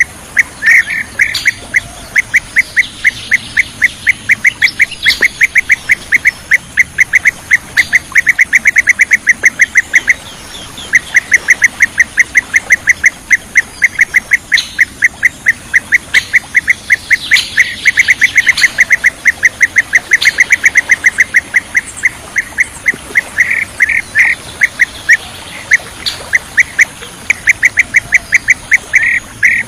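Kirik-kirik laut (blue-tailed bee-eater) calling: a fast, even run of short chirps, about five or six a second, broken by a brief pause about ten seconds in.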